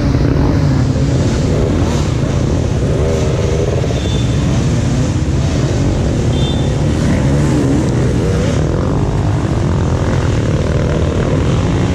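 Motocross motorcycle engines revving up and down, loud and continuous.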